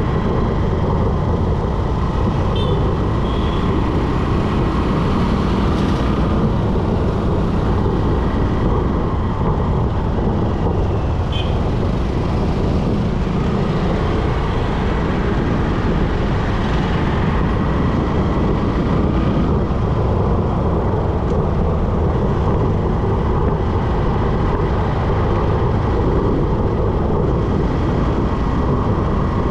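Steady rumble of a moving bike riding through road traffic, with wind and tyre noise and no let-up. Two brief high chirps cut through, a few seconds in and again about eleven seconds in.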